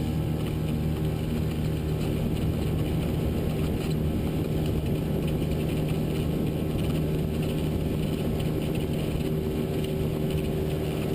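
Boat's Mercury outboard motor running at a steady speed while underway, a constant low hum that does not change in pitch or level.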